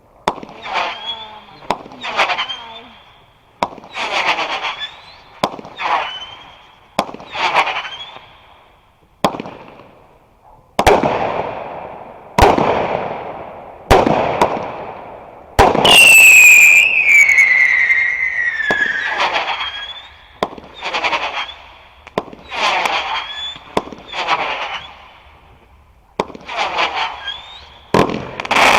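Fireworks going off: a string of sharp bangs every one to two seconds, each trailing off. About halfway through comes a loud whistle that falls slowly in pitch over a few seconds.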